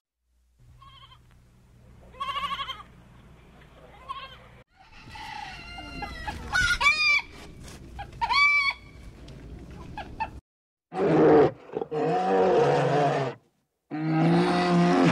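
A sheep bleats once with a wavering voice. Chickens then cluck and call in short arched notes, and after a brief gap a brown bear growls in loud, deep bursts.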